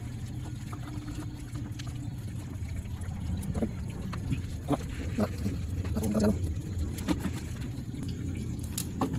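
Suzuki DA64V van's engine idling steadily, with scattered metallic clicks and knocks of work on it, mostly in the middle of the stretch.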